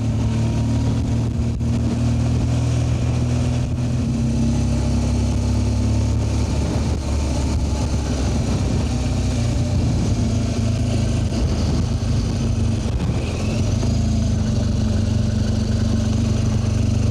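BMW R1200GS boxer-twin engine running steadily as the motorcycle is ridden at an even speed.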